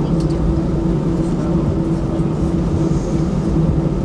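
Steady jet airliner cabin noise: the engines running with a steady low hum over a constant rumble, heard from inside the passenger cabin.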